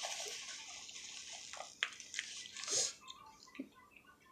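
A person slurping soup: a wet hiss that dies away about three seconds in, followed by a few light clicks.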